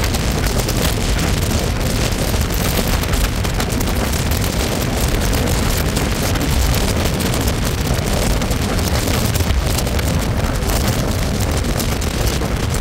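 Indian Railways passenger train running at speed: a loud, steady rumble of wheels on track mixed with rushing wind noise.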